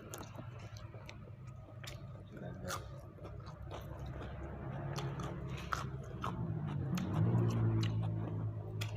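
A person chewing and biting into grilled chicken close to the microphone, with many sharp wet mouth clicks and smacks. A low steady hum comes in over the second half and grows louder near the end.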